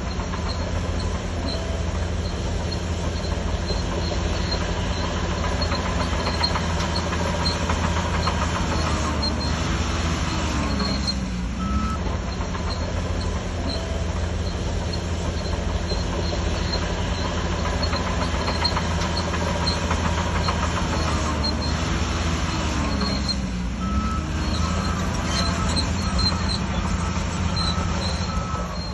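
Shantui DH17C3 crawler bulldozer's diesel engine running steadily under load while pushing soil, with squeaking and clanking from the tracks. The engine note sags and recovers twice, about eleven seconds in and again near twenty-three seconds.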